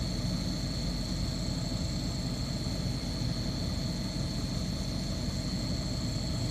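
A steady, unchanging low rumble like an idling engine, with a constant high-pitched whine above it.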